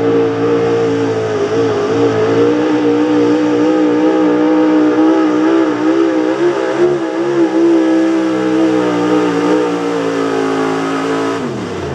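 Big-block gasoline engine of a pulling truck running at high revs under full throttle, its pitch wavering up and down through the middle of the pull, then winding down sharply near the end.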